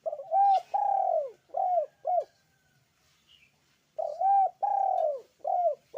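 Puter pelung (Barbary dove) cooing: two phrases of four or five arched coos each, about two seconds apart.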